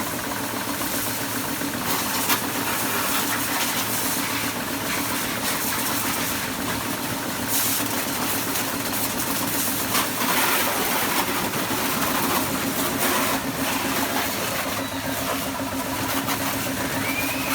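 A motor running steadily with a constant hum, under a hiss, with a few clicks and a faint rising whistle near the end.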